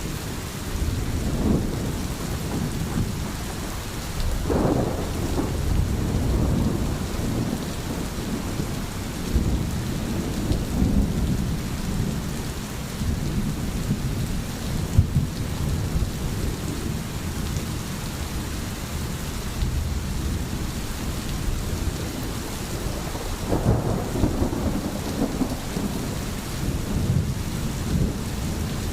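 Steady rain falling, with low thunder rumbling under it that swells about four seconds in and again near the end.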